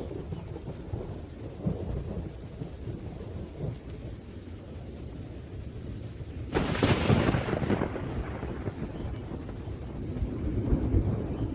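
Thunderstorm: low rolling thunder rumbling over steady rain, with a sharp thunderclap about six and a half seconds in that dies away over a second or two. The rumble swells again near the end.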